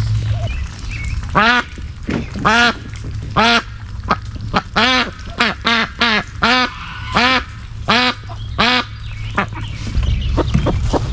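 Duck quacking repeatedly, about a dozen loud calls roughly one a second, with a run of short, quick, high sounds near the end.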